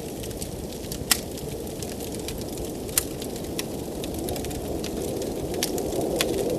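Wood fire crackling and popping in a fireplace, with sharp pops about a second in and three seconds in, over a steady low blizzard wind that grows a little louder near the end.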